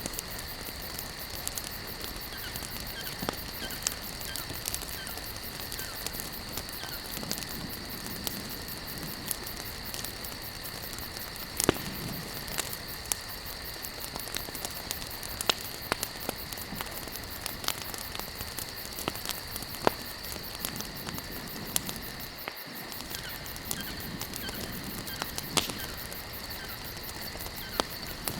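Campfire burning: wood crackling and popping in sharp, irregular snaps over a steady hiss, the loudest pops a little before 12 seconds in and near 20 seconds. A constant high-pitched drone runs underneath.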